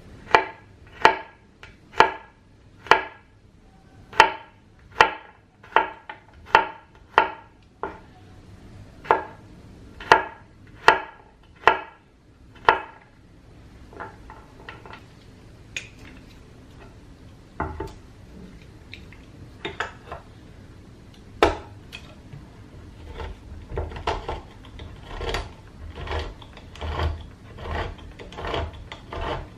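Knife chopping on a wooden cutting board in slow, even strokes, about one a second, each with a short woody ring. About halfway through the chopping stops and gives way to softer, irregular kitchen knocks and clatter.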